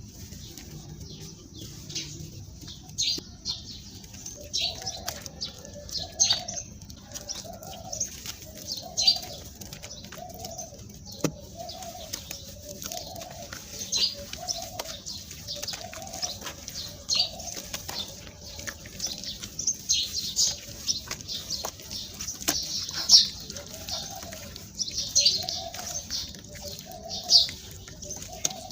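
A dove cooing over and over, roughly one coo a second, stopping for a while in the middle, with short, sharp high sounds scattered all through.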